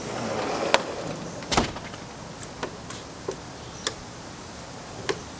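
About six short, sharp clicks and knocks at uneven intervals, the loudest and deepest about a second and a half in, over a faint steady background noise.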